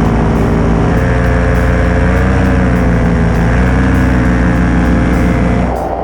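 Paramotor's two-stroke engine (Black Devil 172) running steadily under power with its propeller, the engine note shifting in pitch about a second in and wavering slightly. Shortly before the end the sound changes and drops in level.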